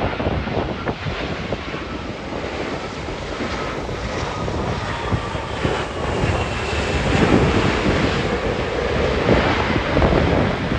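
An airliner's engines, a dense roar that grows louder through the middle and carries a faint, slightly falling whine, with strong gusting wind buffeting the microphone.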